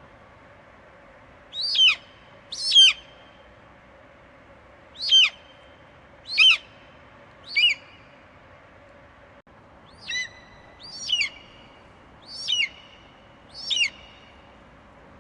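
Eagle screeching: nine short, piercing calls that each drop sharply in pitch, in a run of five and then, after a pause, a run of four, over a steady faint background hiss.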